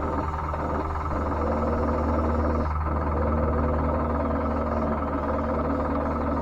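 Electric drive motors and gearing of a radio-controlled Double E 592 loader whining steadily, the pitch held level throughout, with a few brief scuffing noises near the start and about three seconds in.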